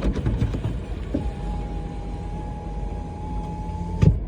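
Steady low rumble inside a car cabin. A faint steady tone runs from about a second in, and a sharp thud comes near the end.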